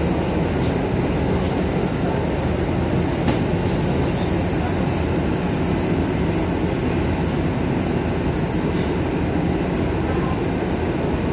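Interior running noise of an EN57AKM electric multiple unit in motion: a steady, even rumble of wheels and running gear heard from inside the car. A few faint sharp clicks stand out, the clearest about three seconds in.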